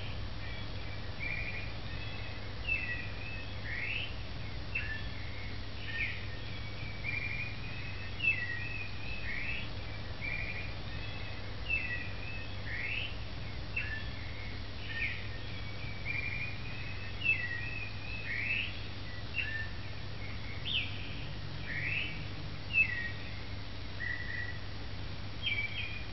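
Small birds chirping: a continuous string of short high calls and quick rising notes, over a low steady hum.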